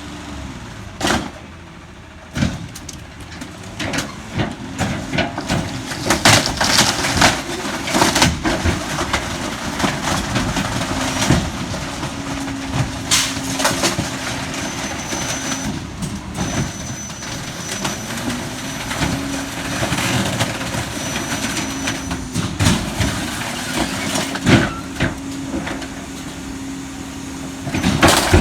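McNeilus rear-loader garbage truck's packer crushing bulky waste: loud cracking, snapping and crashing of items being compacted. Under it the truck engine runs and repeatedly revs up and holds as the packer hydraulics cycle, then drops back.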